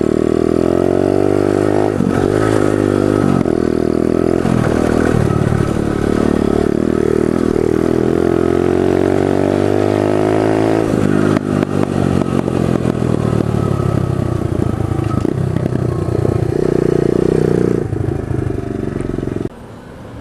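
Pit bike's small single-cylinder engine under way, its pitch climbing in several ramps through the gear changes, then easing off about halfway and running on steadily. Near the end the engine sound falls away suddenly to a much quieter level.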